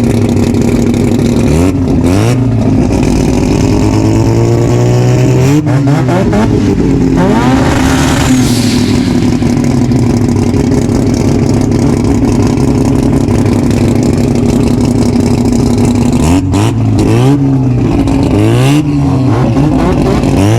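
A race car engine idling loudly and being revved in blips: a short one about two seconds in, a longer rev that climbs and falls back around six to eight seconds in, and several quick blips near the end.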